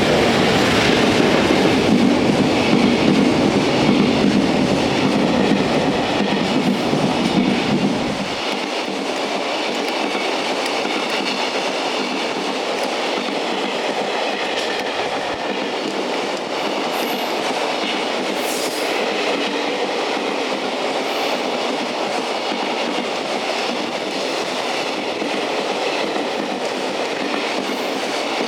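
A freight train hauled by a JR Freight EF210 electric locomotive passes. The locomotive's deep rumble is loudest for about the first eight seconds and drops away suddenly. After that the freight wagons roll by with a steady clickety-clack of wheels on rail, and a brief faint wheel squeal comes in midway.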